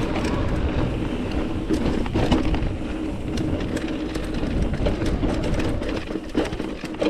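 Mountain bike rolling over a rocky trail: tyres rumbling on rock, with frequent short clicks and rattles from the bike, over a steady low rumble.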